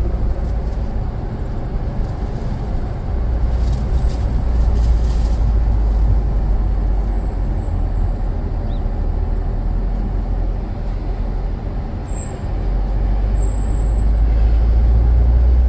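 Steady loud rumble of a moving car's wind and road noise, heaviest in the deep bass, easing slightly then building again near the end.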